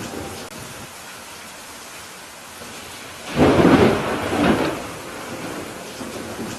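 Steady rain with a loud rumble of thunder that swells in about three and a half seconds in and dies away over a second or so.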